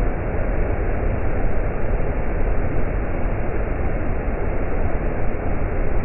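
Isaac Falls pouring, a steady heavy rush of water with no let-up.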